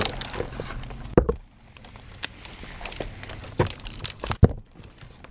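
A steady idling engine hum cuts off at the start, followed by scattered sharp clicks and knocks, with two louder knocks about a second in and near the end.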